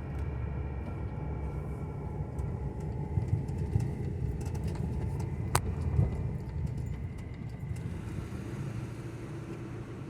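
Steady low rumble of a motor vehicle driving, with a single sharp click about halfway through.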